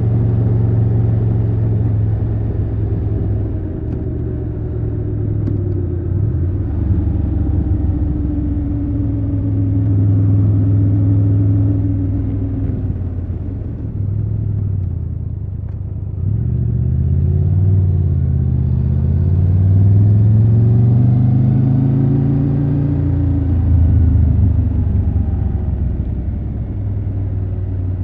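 Triumph Tiger 1200 Rally Pro's three-cylinder engine running under way, its pitch rising and falling as the bike accelerates and eases off. About halfway through it drops back and quietens briefly, then revs up again.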